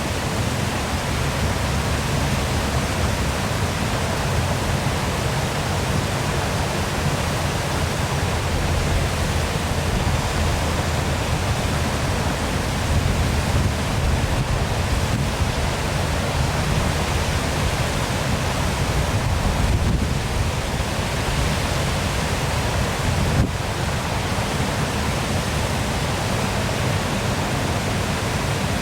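Waterfall rushing steadily, a dense, even roar of falling water with a heavy low rumble. One brief tick about three-quarters of the way through.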